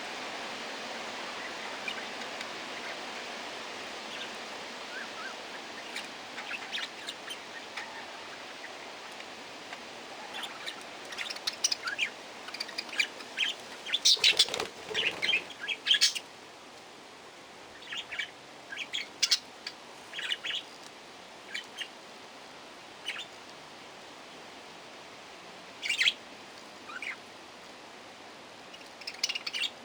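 Aviary parakeets calling: many short, high chirps and squawks, busiest and loudest in the middle, then sparser.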